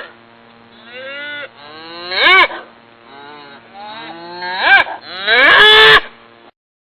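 A cow mooing four times, each call rising and falling in pitch; the first is faint and the last is the longest and loudest. The sound then cuts off suddenly.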